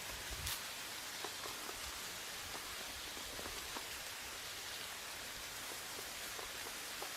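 Steady rain falling, a soft even hiss with scattered individual drops ticking.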